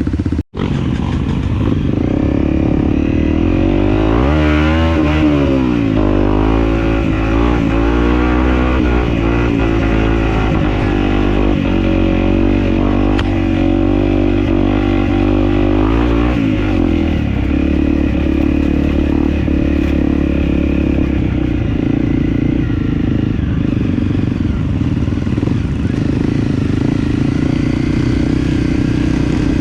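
Dirt bike engine running under way off-road, revving up and down several times in the first half and then holding a steadier pace.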